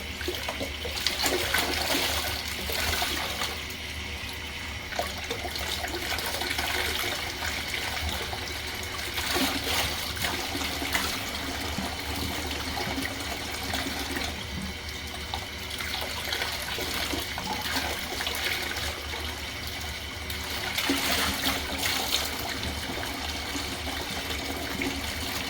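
Tap water running steadily, splashing over a dirty vacuum filter as it is rinsed clean.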